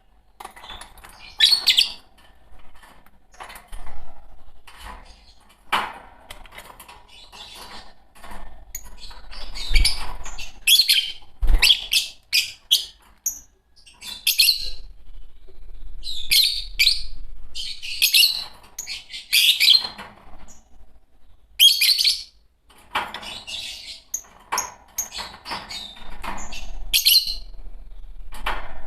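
Fischer's lovebirds calling: a run of short, shrill chirps and squawks at irregular intervals, with a couple of low thumps about ten and eleven seconds in.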